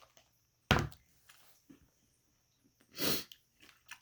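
A person eating between remarks: faint mouth and spoon clicks, a sharp knock a little under a second in, and a short breathy rush of air near three seconds in, like a sniff or exhale.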